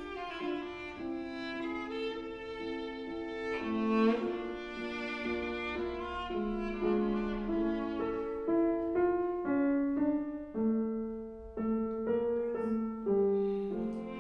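Viola playing a melody with piano accompaniment. Held notes give way to shorter, more separated notes in the second half.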